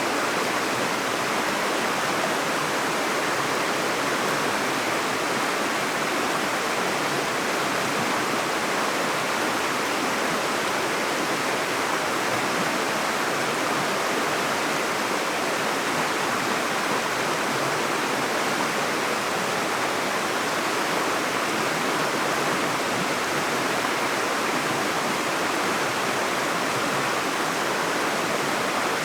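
Flowing stream water, an even, unbroken rushing.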